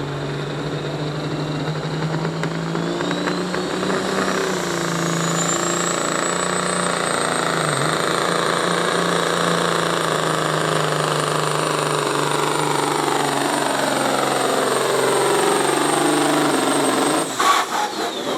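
Pulling vehicle's engine under full load during a pull, a steady engine note with a high whine that climbs over the first few seconds and then holds. Near the end the engine is cut, with a few sharp pops, and the pitch falls away.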